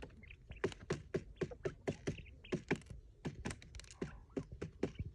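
An uneven run of light taps and knocks, several a second, each with a dull thud.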